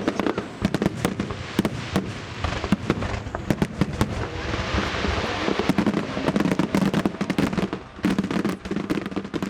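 Aerial fireworks bursting in quick succession, many sharp bangs with a stretch of dense crackling about halfway through.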